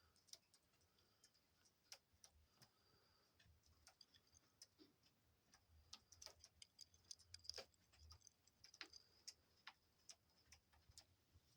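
Near silence broken by faint, irregular small clicks and ticks, busiest in the middle of the stretch.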